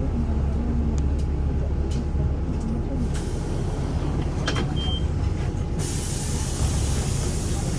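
City bus running with a steady low rumble, a few clicks and a short beep. About six seconds in, a loud hiss of air starts suddenly, as from the bus's air brakes or doors.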